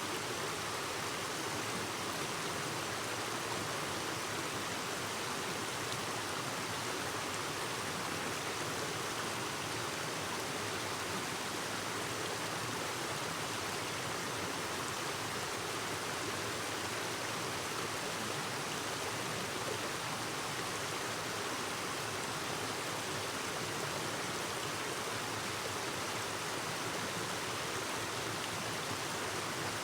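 Clear stream babbling over rocks: a steady, even rush of running water that never changes.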